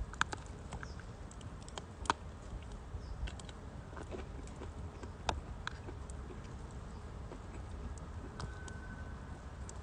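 Firewood burning in a fire pit, crackling with scattered sharp pops at irregular intervals, the loudest about two and five seconds in.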